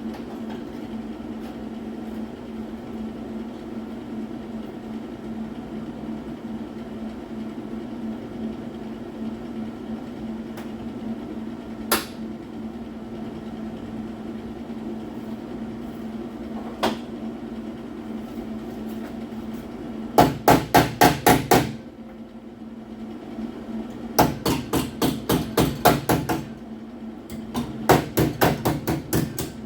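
Hammer blows on sheet-metal body panelling: two single knocks, then three quick runs of strikes at about five a second in the second half. A steady low hum runs underneath.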